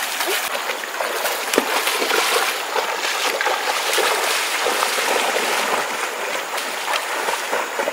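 Running stream water with frequent small splashes and trickling throughout.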